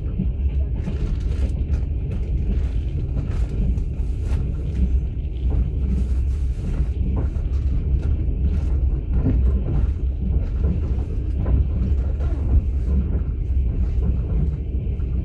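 Inside a moving passenger train's open-plan sleeping car: a steady low rumble of the wheels and running gear on the track, with scattered faint clicks and knocks.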